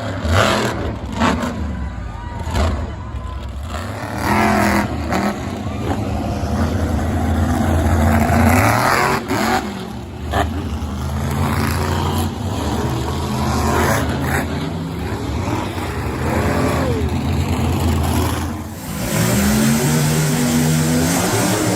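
Monster truck engine revving hard, its pitch rising and falling again and again, with sharp knocks and thuds scattered through.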